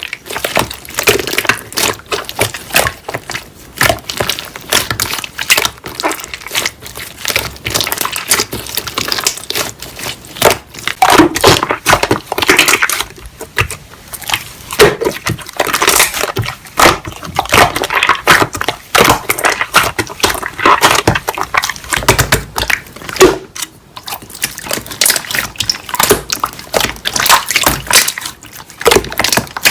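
Slime being squeezed and played with by hand: a dense, irregular run of sticky, wet clicks and crackles.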